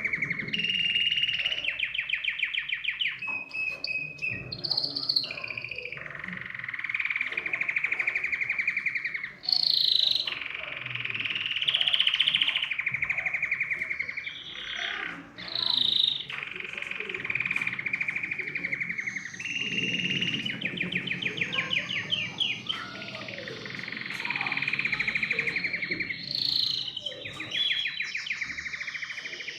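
Domestic canary singing continuously: long trilled phrases and fast rattling rolls, with higher whistled notes between them.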